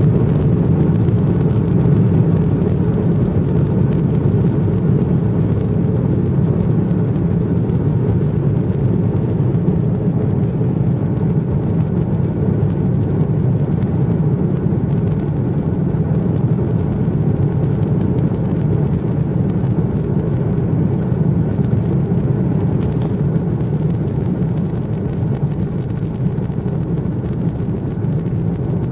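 Steady loud rumble of an airliner's jet engines and rushing air, heard from inside the passenger cabin, easing off slightly near the end.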